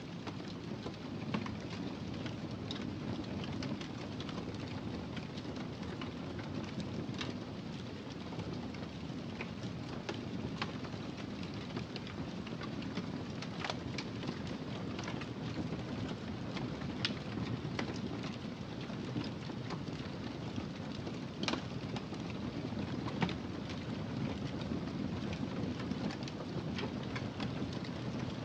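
Fire in a fireplace crackling: scattered sharp pops and snaps at irregular intervals over a steady low rumble of the burning fire.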